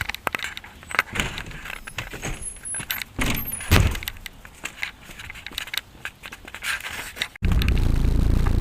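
Scattered clicks, clinks and rustling of things being handled, then about seven seconds in, a sudden switch to a loud, steady low drone: a car's body vibrating and humming inside the cabin while driving.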